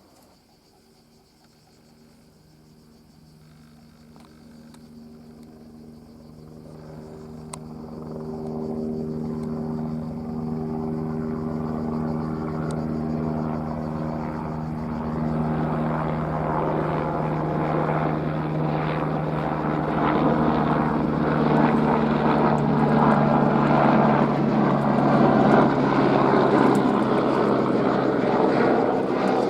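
Airbus AS350 helicopter approaching, its turbine and rotor growing steadily louder over the first ten seconds, then running loud and close with a steady hum and a chopping rotor beat in the second half.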